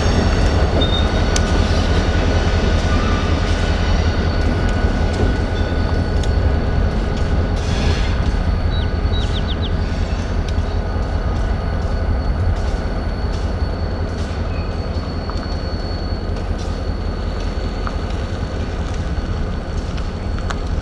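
Diesel freight locomotive running with a steady low rumble as the train rolls slowly through a turnout, its wheels giving a thin, steady high squeal.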